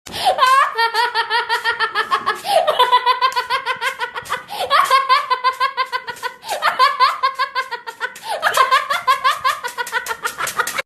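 High-pitched laughter in five bursts, each opening with a rising whoop and going on in rapid, even 'ha-ha' pulses.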